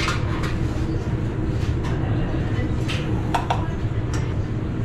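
A few light clicks and clinks of handling as a rewired commercial bun toaster's cord is plugged in, with no pop or bang from a short, over a steady low rumble.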